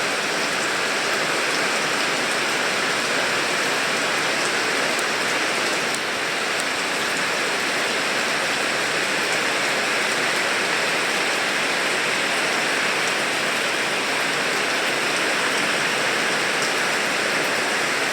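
Steady rain falling, an even hiss of drops with faint individual drop ticks, unchanging throughout apart from a brief slight dip near six seconds in.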